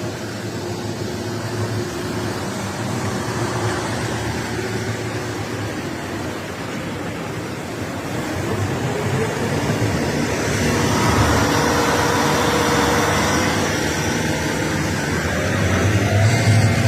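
Engines of fast-running rigid-hulled inflatable boats with a steady rush of wind and water. About halfway through, a second engine note slides upward and the sound grows louder.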